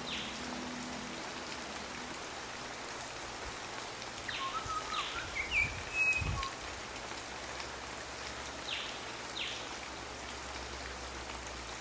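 Steady rain falling, with birds calling over it: two pairs of quick downward-sweeping calls, about four and nine seconds in, and a short run of chirps about five seconds in. A soft low thud sounds about six seconds in.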